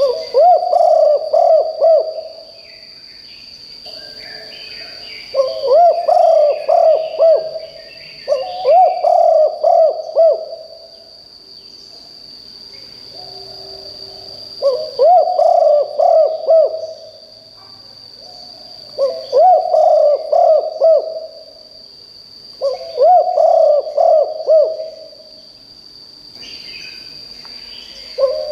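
Spotted dove cooing: a loud phrase of several low, rolling coos about two seconds long, repeated seven times at intervals of three to four seconds. A steady high-pitched tone runs underneath, and small birds chirp faintly early on and near the end.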